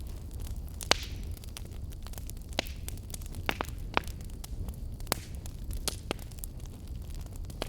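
Wood fire burning in a fireplace: a steady low rumble of flames with sharp crackles and pops scattered through, the loudest about a second in.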